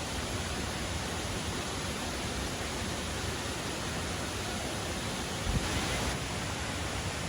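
Waterfall rushing with a steady, even roar of falling water. About five and a half seconds in, a brief low thump and a short swell of louder hiss stand out.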